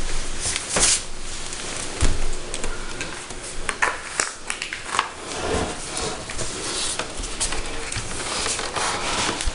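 Handling noises of a cupboard door being lifted off its cabinet after its European hinges are unscrewed: a few scattered knocks and clicks.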